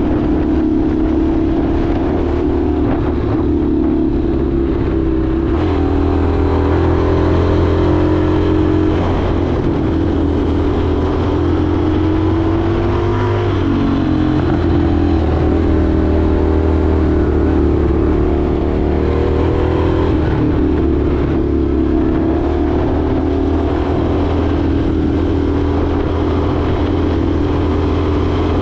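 Indian FTR 1200's V-twin engine running steadily under way. About halfway through, its pitch dips and then climbs back up.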